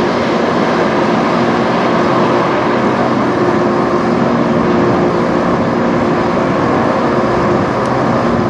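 Jet engines of a low-flying airliner, most likely the Embraer E175 regional jet, passing overhead on landing approach: a loud, steady roar with several held engine tones through it.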